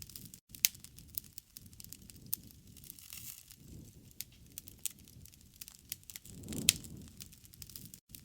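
Wood campfire crackling with scattered sharp pops over a low rush of burning; about two-thirds of the way in the rush swells and ends in one louder pop.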